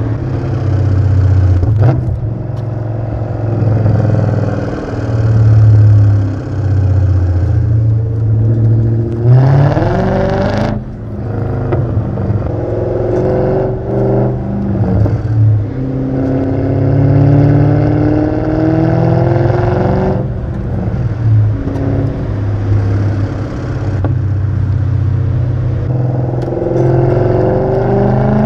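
Straight-piped BMW E39 M5's 4.9-litre V8 accelerating hard through the gears. The exhaust note climbs in pitch in several long pulls, cutting off abruptly about ten seconds in at a shift before climbing again.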